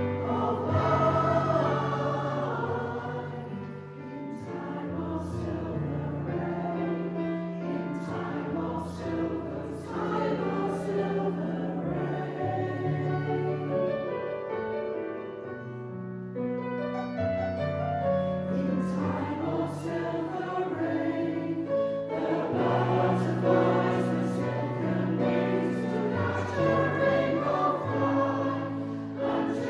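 Community choir singing a choral piece in parts with piano accompaniment, easing to a softer passage about halfway through before building again.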